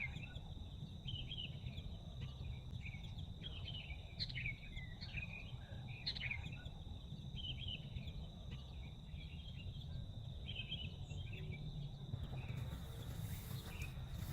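Woodland birds chirping in short scattered calls over a steady high-pitched insect drone and a low constant rumble. Near the end a faint hiss rises.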